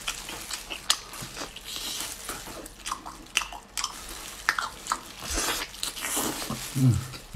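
A person biting and chewing spicy sauce-coated octopus tentacle with the mouth close to the microphone: wet smacks, sticky clicks and chewing noises in an irregular stream. Near the end there is a short low hum from the eater.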